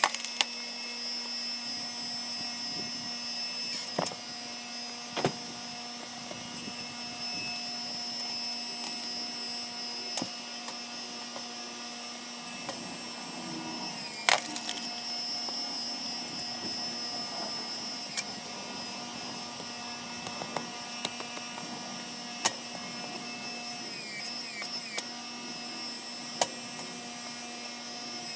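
Engine-driven hydraulic log splitter running steadily, with sharp cracks and knocks of wood every few seconds.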